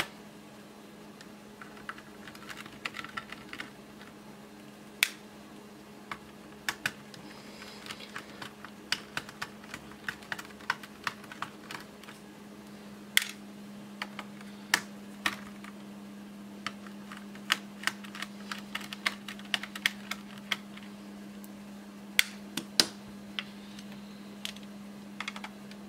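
Irregular sharp clicks and taps of a screwdriver and small screws against a laptop's plastic case as screws are taken out, over a steady low hum.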